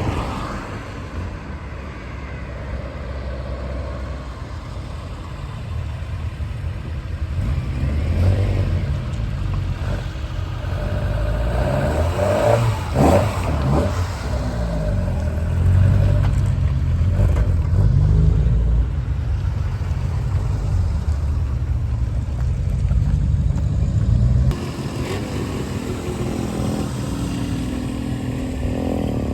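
Exhaust note of an old Showa-era Nissan Skyline, the engine running and revved so the note rises and falls several times around the middle, then settling to a lower, steadier running note near the end.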